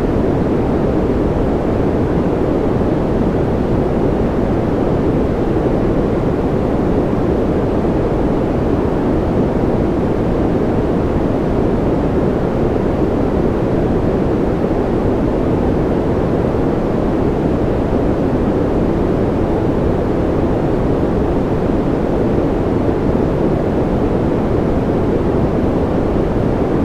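Steady, unchanging white-noise track, a deep even rush with little hiss at the top and no individual drops or beats.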